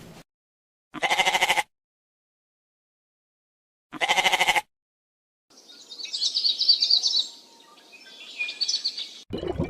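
A farm animal bleating twice, each call short, about three seconds apart. Then, after a pause, small birds chirp in quick high trills for a few seconds.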